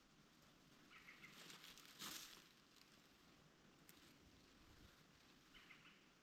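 Near silence outdoors, broken by a brief rough scuff of soil being handled and packed about two seconds in. A small bird chirps faintly twice.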